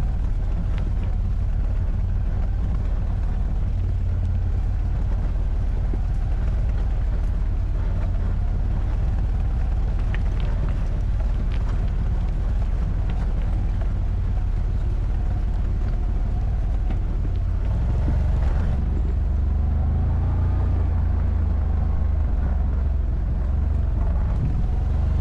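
ATV engine running while riding off-road, its pitch wandering up and down with the throttle, over a steady low wind rumble on the microphone. The low rumble grows a little louder about two-thirds of the way in.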